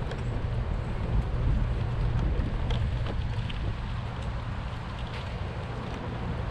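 Steady low rumble of wind buffeting the microphone outdoors, with a few faint ticks.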